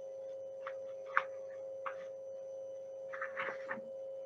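Quiet room with a steady high hum, and a few soft clicks and rustles from a picture book being handled; the sharpest click comes about a second in, and a small cluster of rustles near the end.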